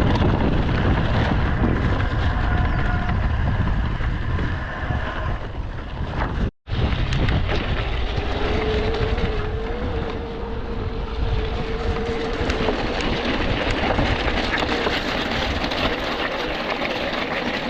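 Wind buffeting and trail rumble on a helmet or bike camera as an electric mountain bike rides over wet ground. Through the middle, the e-bike's drive motor whines steadily under turbo-mode assist on a climb. The sound cuts out completely for a split second partway through.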